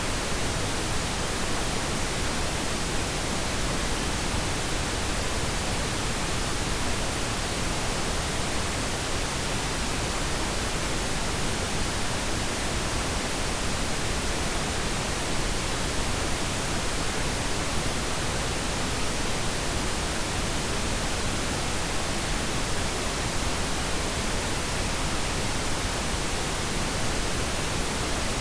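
Pink noise: an even, steady hiss spread across all frequencies, unchanging throughout.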